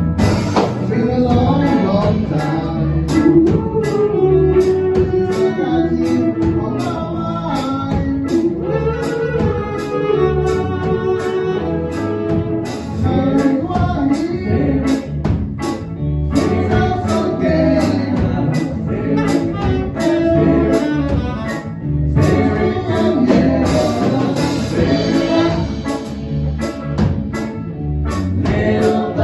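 A band playing a reggae song, with a steady beat, singing and horn or saxophone lines.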